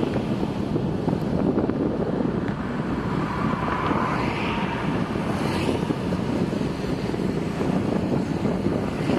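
Steady road noise from a vehicle on the move, with wind on the microphone and a few brief swells in the hiss.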